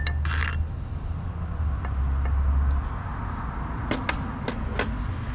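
Hand tools working the shift linkage loose on an outboard motor's lower unit: a brief rustle near the start, then four sharp metallic clicks about four seconds in, over a steady low rumble.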